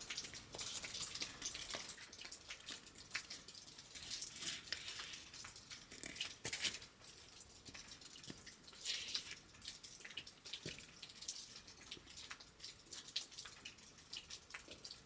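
Faint, irregular patter of water drops, many small soft ticks with no steady rhythm.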